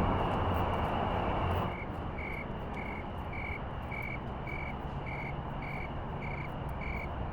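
Insects chirping at dusk: a steady high trill with an evenly spaced chirp, a little under two a second, that begins about two seconds in. Over the first couple of seconds a louder rushing noise with a low hum sits under the insects, then drops away.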